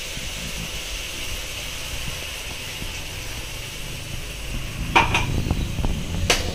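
Ginger-garlic and spice paste frying in hot oil in a pan, a steady sizzle, with a spoon knocking against the pan a few times near the end.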